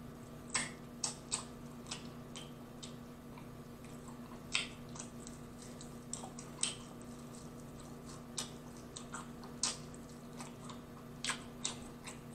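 Close-miked chewing of a fried chicken wing: irregular sharp crunches and mouth clicks, a few seconds apart, over a faint steady hum.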